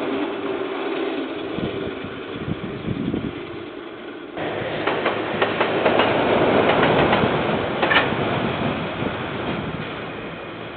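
KiwiRail train passing on the line, its wagons rumbling and the wheels clattering and clanking on the rails. The sound steps up suddenly about four seconds in, then brings a run of sharp clanks, the loudest near eight seconds, and fades toward the end.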